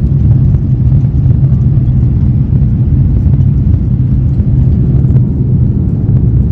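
Jet airliner cabin noise: the steady low rumble of the engines and airflow heard from a passenger seat, loud and even throughout.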